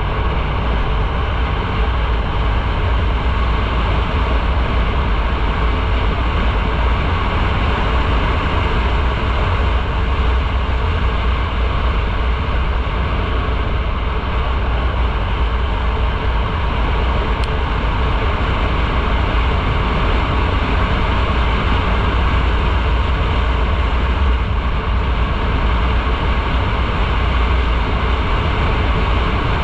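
Motorcycle riding at a steady speed: constant wind rush over the microphone with road and engine noise, strongest in the deep low end and unchanging throughout.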